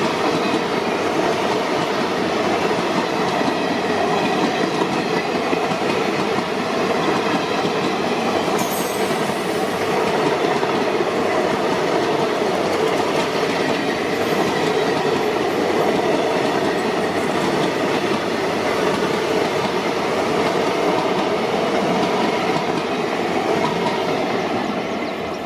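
Express passenger train running past at speed: a steady loud rolling noise of coaches and wheels on the rails, with a brief high squeal about a third of the way in.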